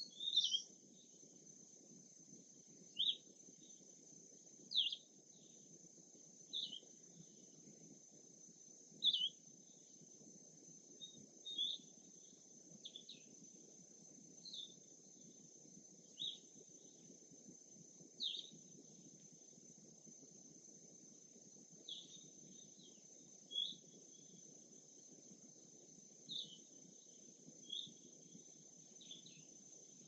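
A songbird giving short, high, falling chirps, one every second or two, about fifteen in all. Under them run a steady high-pitched hiss and a faint low rumble of outdoor ambience.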